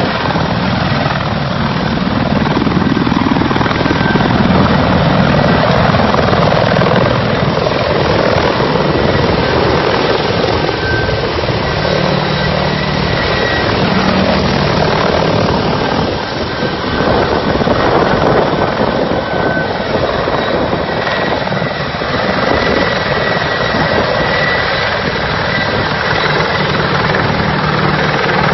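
Mi-35M attack helicopter's rotor and twin turboshaft engines running steadily, with a faint high turbine whine over the rotor noise.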